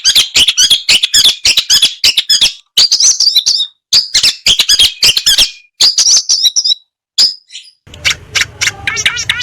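A songbird singing fast, harsh chirping phrases, a second or two long, with short pauses between. Near the end the song changes to a quicker run of repeated rising-and-falling notes over a low hum.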